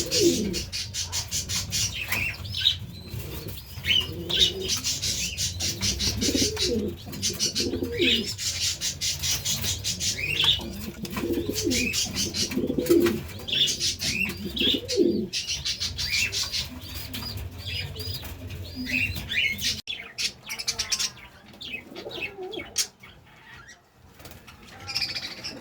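Pigeons flapping and fluttering their wings, with pigeons cooing low and smaller birds chirping high over them; the flapping stops about twenty seconds in.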